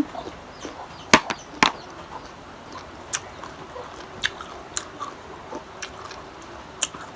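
Close-up chewing of crunchy unripe green mango, with a handful of sharp, crisp crunches spread through the chewing, the loudest about a second in.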